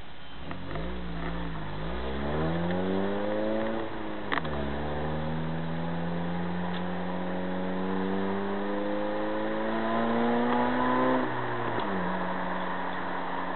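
Honda Prelude 2.2 VTEC four-cylinder engine heard from inside the cabin, accelerating through the gears. The pitch rises, drops with a short click at an upshift about four seconds in, climbs steadily for about seven seconds, then drops at another upshift near the end and holds steady.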